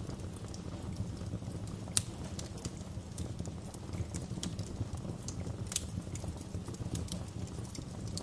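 Wood fire crackling in a fireplace: a steady low rumble of burning with irregular sharp pops and snaps. The loudest pop comes about two seconds in and another strong one near six seconds.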